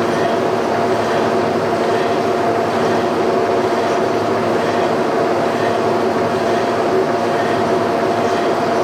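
Portable line-boring bar running steadily and back-boring a worn pivot hole in a steel trailer suspension frame, its end supported in a bushing, with a steady whine over the cutting noise.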